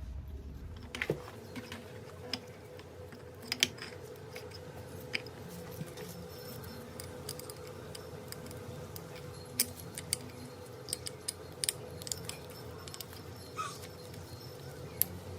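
Scattered light clicks and clinks of small metal parts being handled, irregular and unevenly spaced, over a faint steady hum.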